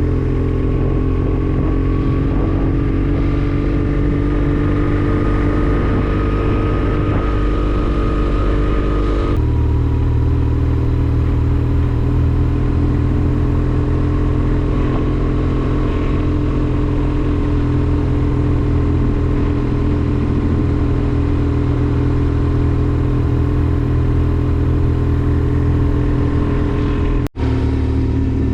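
Motorcycle engine running steadily while riding, a continuous low drone that rises slightly in pitch and then drops to a lower, steadier note about nine seconds in. It cuts out for an instant near the end.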